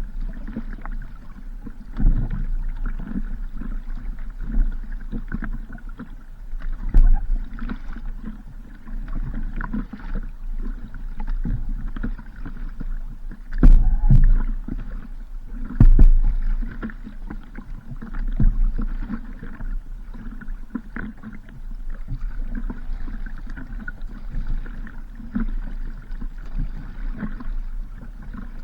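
Paddling on open water: a steady low rumble of wind on the microphone with water noise, broken by a few loud knocks about 2, 7, 14 and 16 seconds in.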